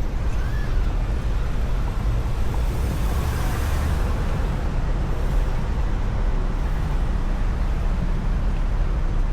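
Steady street traffic noise with a deep rumble underneath, and a vehicle swelling past about three to four seconds in.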